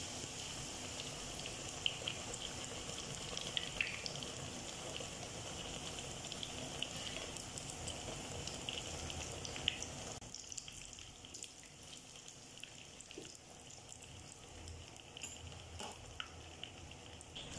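Batter-coated whisked egg sizzling and crackling in hot oil in a small pan, with scattered pops. The sizzle drops noticeably about ten seconds in.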